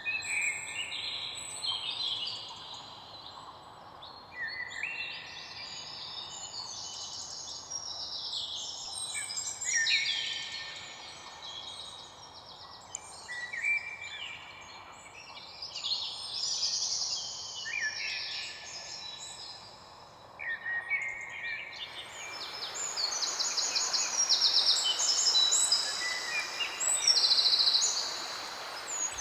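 Several songbirds singing over one another in a continuous dawn-chorus-like stream of short chirps and trills. About two-thirds of the way through, a steady hiss rises beneath them and the songs turn higher and faster.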